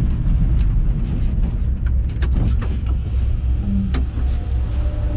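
Jaguar XJS race car's engine idling, heard from inside the cockpit as a steady low rumble, with a few light clicks and knocks.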